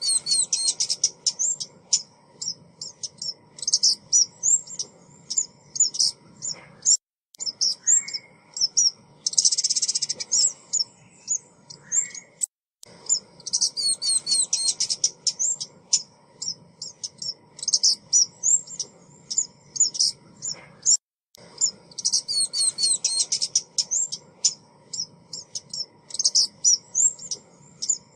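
Lure recording of a female small songbird, the bird Vietnamese trappers call ốc mít, giving rapid runs of high, thin chirps and twitters. The recording drops out abruptly to silence three times.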